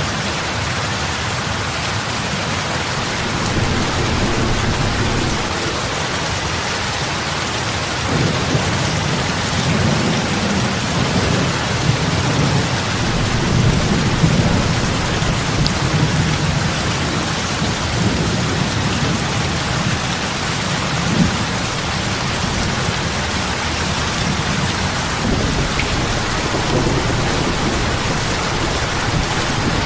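Heavy rain falling on lake water: a steady, even hiss of drops hitting the surface. A low rumble swells in under it about eight seconds in, fades slightly, and comes up again near the end.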